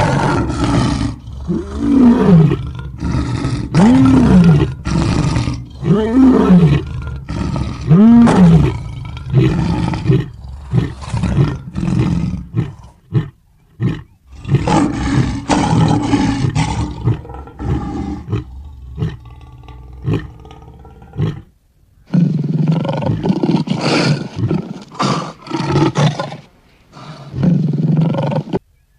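Lion roaring: a series of deep roars about two seconds apart, each rising and then falling in pitch, followed by rougher, noisier roaring that breaks off briefly twice.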